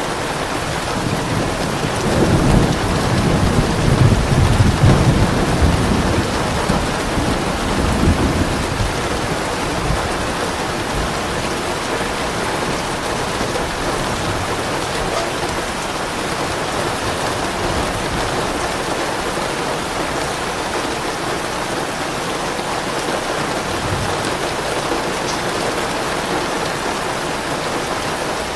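Steady rain falling, with a soft roll of thunder rumbling from about two seconds in and fading out by about eight seconds.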